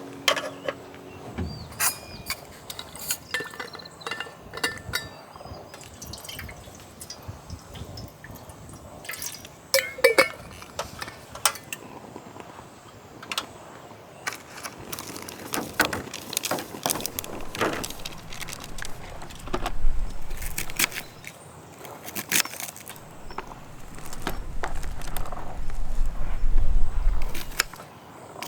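Irregular clinks and knocks of glass and metal ware being handled, some ringing briefly, with liquid sounds; a louder stretch of low rumble comes late on.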